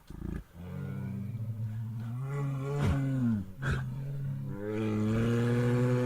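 A bear roaring: long, deep roars held at a steady pitch, with brief falling-pitch breaks about three seconds in, after a sudden thump at the start.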